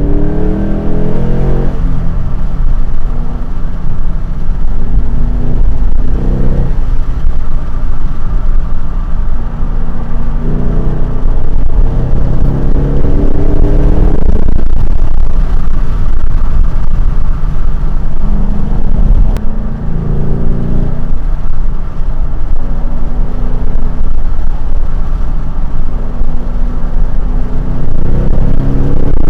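Ford Mustang's engine and road noise while driving: a steady low rumble, with the engine note rising in pitch several times as the car accelerates.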